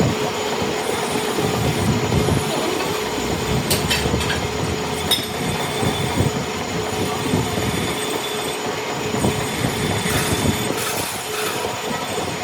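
Metalworking machinery running steadily on a steel bulldozer drive sprocket, a steady hum with a scraping, squealing metallic noise and a few sharp clicks.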